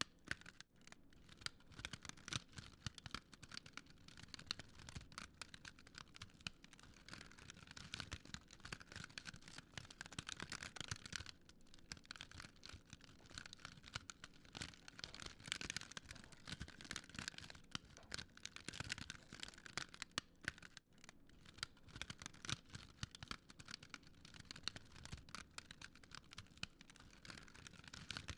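Fire crackling steadily, a dense run of irregular small pops and snaps.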